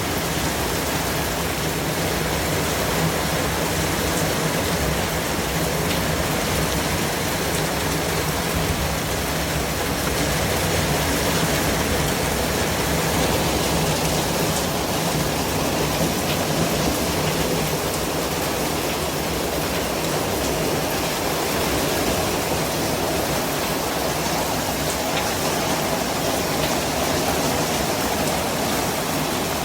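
Steady, even rushing noise played as a white-noise track, spread across all pitches and swelling slightly now and then, with no distinct events.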